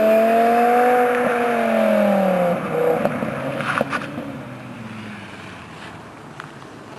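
BMW E60 M5's S85 V10 running at high revs through a cat-less, resonator-less Evosport exhaust (race pipe, X-pipe, race muffler), its note holding steady then dropping in pitch about two and a half seconds in and fading away. A few sharp crackles sound near four seconds in.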